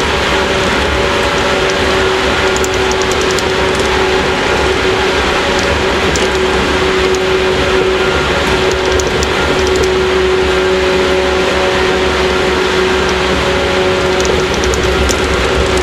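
Running noise inside a JR 115 series electric multiple unit's motor car (KuMoHa 115) at steady speed: a constant traction-motor and gear hum over wheel and rail noise, with occasional light clicks.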